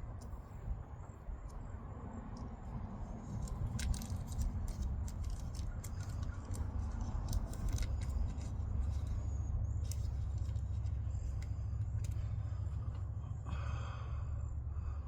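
A steady low rumble with scattered small clicks and scrapes, and a brief louder scratchy patch near the end.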